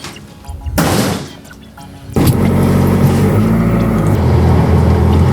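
A short burst of noise about a second in, then from about two seconds in a delivery truck's engine running loudly and steadily.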